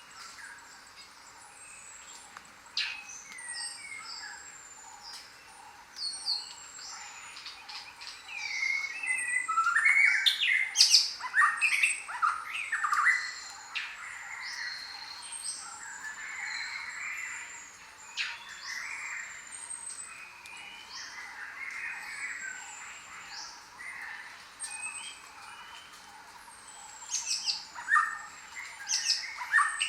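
A chorus of many tropical birds chirping, whistling and squawking. The calls overlap and come thickest about a third of the way in and again near the end, over a steady faint high hiss.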